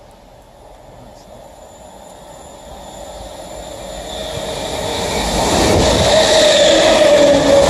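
Class 319 electric multiple unit approaching and running through the station without stopping, its rumble on the rails growing steadily louder as it nears and draws level. About five seconds in, as it passes close by, a steady whine joins the noise.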